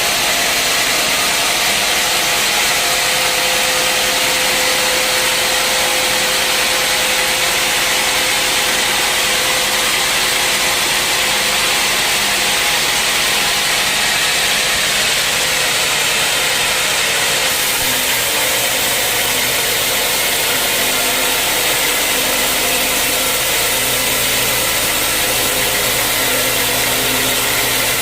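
Sawmill saw running and cutting through a mahogany log, a loud, steady rushing noise over a machine hum. About two-thirds of the way through the highest hiss eases and a lower hum comes up.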